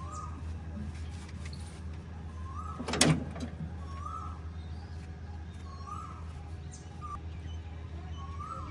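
A diesel engine running steadily at low revs, with one sharp, loud knock about three seconds in. A bird calls over it every second or so with a short rising-and-falling note.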